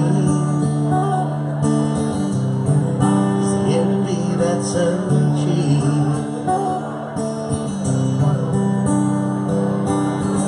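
Live band playing an instrumental passage, led by strummed acoustic guitar over held chords.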